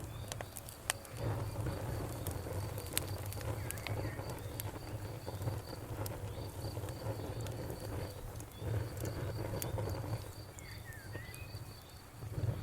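Wood fire crackling, with scattered sharp pops over a low, steady rumble of burning, and a high, evenly repeating chirp of an insect throughout.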